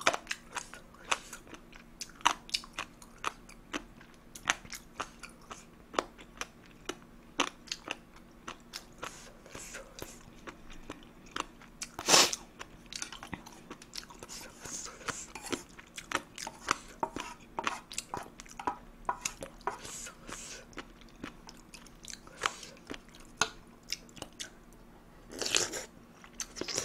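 Close-miked eating sounds: a person chewing and crunching food, kimchi fried rice and side dishes, as a steady run of small crisp crunches and clicks. There is one sharper click about halfway through.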